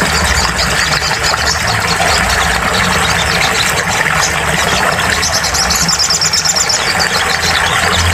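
Little spiderhunter (sogon) song with a fast high trill a little past the middle, over a steady low hum and dense hiss.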